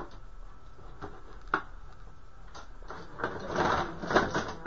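Clothes hangers being rummaged through and clattering: a couple of sharp clicks, then a busy rattle from about three seconds in.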